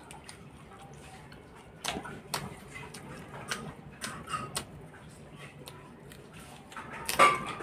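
Close-up eating sounds of a person chewing food eaten by hand: scattered wet mouth clicks and smacks, a few in quick succession at times, with a louder smack about seven seconds in.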